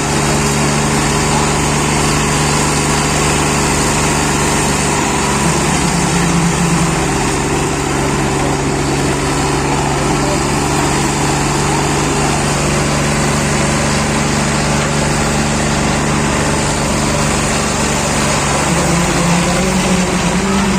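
Swaraj 744 tractor's three-cylinder diesel engine running steadily, its note swelling briefly about six seconds in and again near the end.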